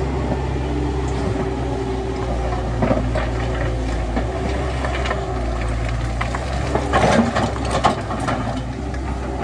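Heavy diesel machinery engine running steadily, with scattered metallic clanks and knocks, a cluster of them about seven to eight seconds in.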